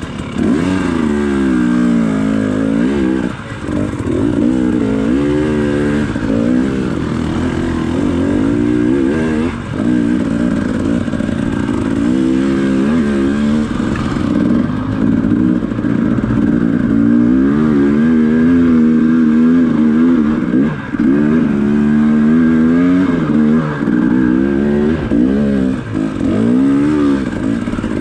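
Dirt bike engine revving up and down again and again, the throttle worked in short rising and falling bursts as the bike climbs through a rocky trail section.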